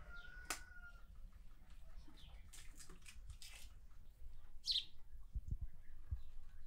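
Faint bird chirps, with a short falling call about four and a half seconds in, amid scattered small clicks and soft knocks.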